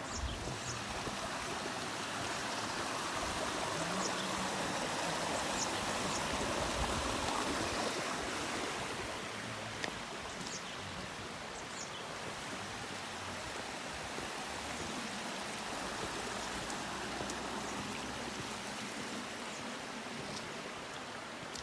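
Mountain stream rushing steadily over rocks, a little louder for a few seconds near the start.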